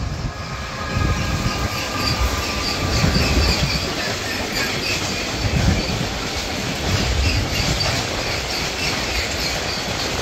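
Class 187 electric locomotive passing with a whine that fades about two seconds in, followed by a freight train of tank wagons rolling by: steady wheel rumble and clatter with a high wheel squeal.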